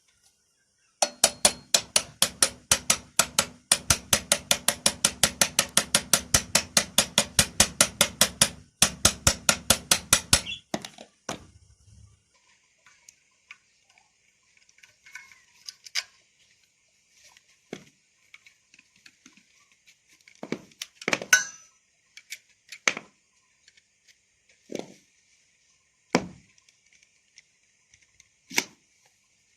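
Fast, even hammer taps on metal parts of a vacuum cleaner motor during reassembly, about five strikes a second for some nine seconds. Then they stop, and a few scattered knocks and clinks of parts being handled follow.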